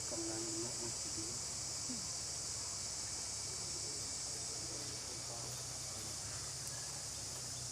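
Steady, unbroken high-pitched insect chorus of crickets or cicadas. A few faint, brief wavering vocal sounds come in the first second or so.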